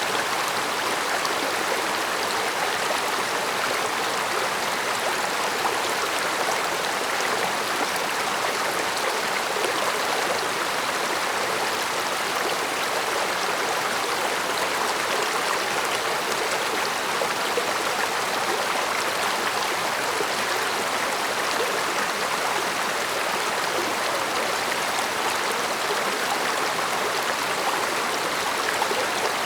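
Mountain stream flowing steadily over rocks: an even rush of water with fine splashing and trickling.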